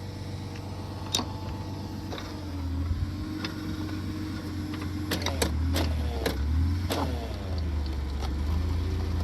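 Engine of a post hole auger rig running under load as the auger bores into frozen ground against a tree root, its pitch and loudness shifting as it works. Several sharp knocks come a little past halfway.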